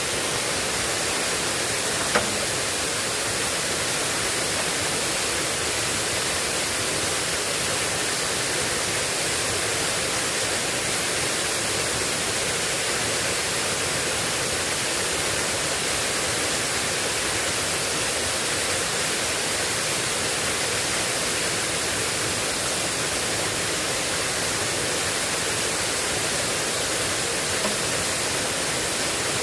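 Heavy rain falling in a steady hiss, with a single sharp click about two seconds in.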